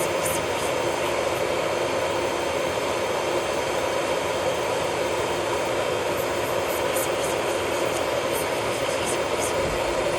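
Steady whir of a small electric motor in nail-salon equipment, running at an even speed with a hum and a faint scratchy ticking over it.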